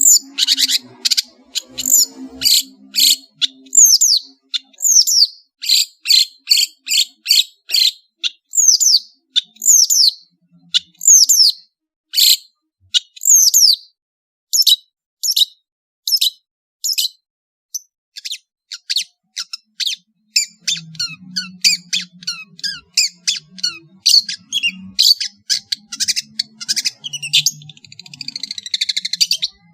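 Long-tailed shrike (cendet) singing: a run of sharp, high notes that each sweep downward, two or three a second. After a short pause about halfway, it turns into a faster, denser chatter of short notes.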